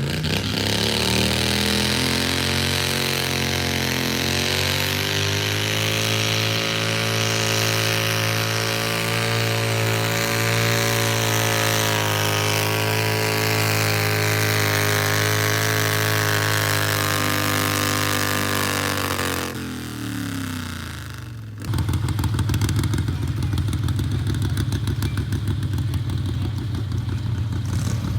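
Modified pulling garden tractor's engine revving up and held at high, steady revs, then winding down about twenty seconds in. A rougher, lower engine sound starts abruptly soon after.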